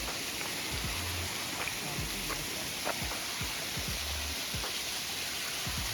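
Waterfall rushing, a steady even hiss of falling water, with brief low wind rumbles on the microphone.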